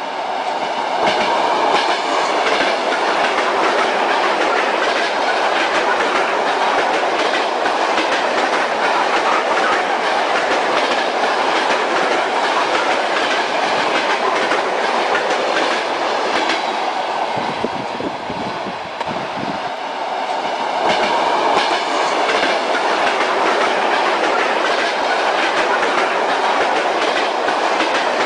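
Railway carriage wheels clattering over rail joints: the steady rumble of a moving train with a rhythmic clickety-clack. The sound eases a little about two-thirds of the way through, then comes back up.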